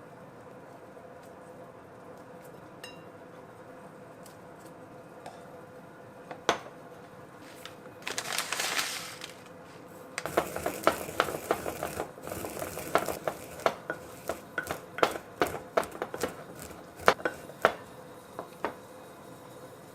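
Kitchen clatter: dishes and utensils clinking and knocking in a quick, irregular series through the second half. A short hiss comes about eight seconds in, and a faint steady hum runs underneath.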